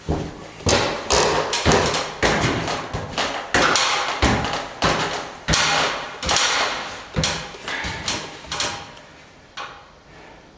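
Hand tool working on plaster: a run of sharp knocks and scraping strokes, roughly two a second, easing off about nine seconds in with one last knock shortly after.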